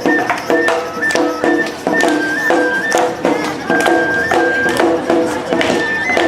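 Awa odori narimono music: a shinobue flute playing a held, stepping melody over a steady beat of drums and gong strikes.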